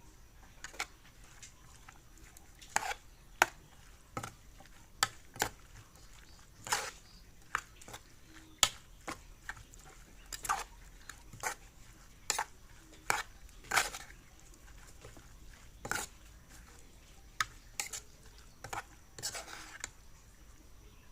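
A metal spoon clinking and knocking against a dish while food is stirred and mixed. About twenty irregular, sharp clinks, some ringing briefly.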